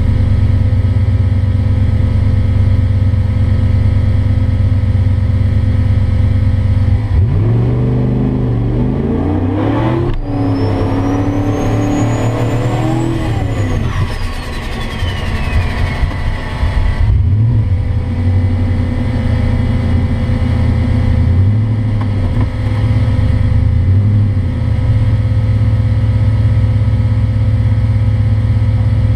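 Single-turbo 2002 Mustang's four-valve V8 idling, then pulling hard for about seven seconds as the engine note and a turbo whistle climb together, with one brief break partway through. The throttle then closes, the turbo whine slides down in pitch, and the engine settles back to a steady idle.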